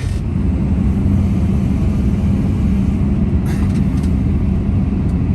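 Cat 329 excavator's diesel engine running steadily under load, a loud low drone that picks up slightly just after the start, with a brief clatter about three and a half seconds in.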